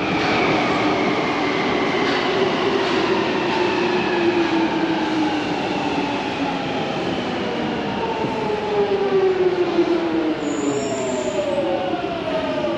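Metro train's traction motors whining with several tones that slide steadily down in pitch as the train slows, over the rumble of the wheels. A brief high-pitched wheel squeal comes near the end.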